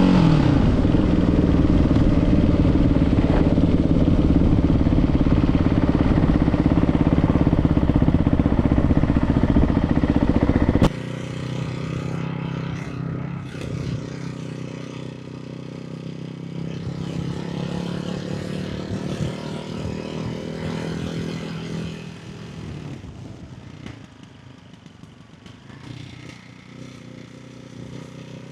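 Ducati Hypermotard 698 Mono's single-cylinder engine through a baffled Termignoni exhaust, held at steady high revs for about eleven seconds, then dropping abruptly to much quieter, lower, uneven running that fades further near the end.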